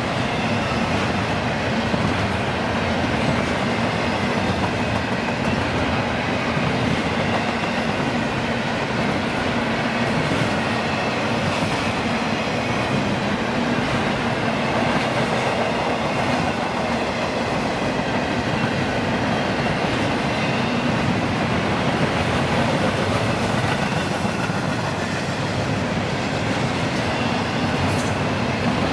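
A train rolling past on the tracks: a steady, unbroken rumble of railcar wheels on rail, with a few sharp clicks scattered through it.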